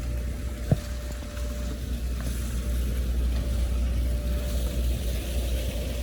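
A boat's motor running steadily: a low hum with a faint steady whine over a hiss. A single sharp click comes just under a second in.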